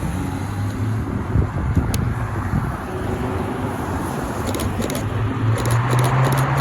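Supercar engines running at low revs, a steady low engine note that grows louder near the end as a car pulls out.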